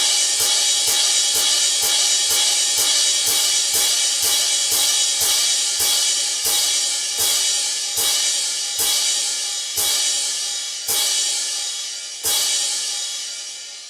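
Toy monkey's small cymbals clashing in a regular rhythm, about three clashes a second at first, slowing steadily until the clashes come more than a second apart. The last clash rings out.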